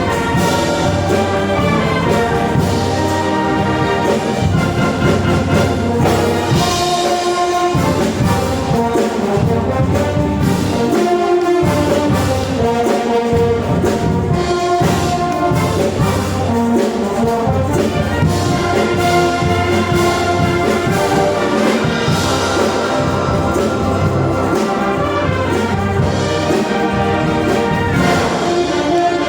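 Brass band playing, with trombones and trumpets sounding held chords and melody lines at a steady, full volume throughout.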